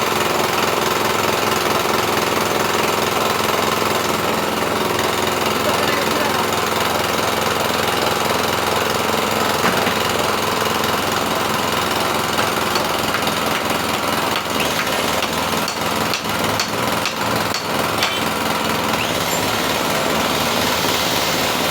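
Two-stroke brush cutter engine running steadily at speed, briefly stuttering several times a few seconds past the middle.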